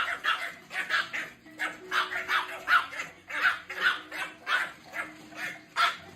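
A dog barking in a quick run of short, high-pitched yaps, about two to three a second.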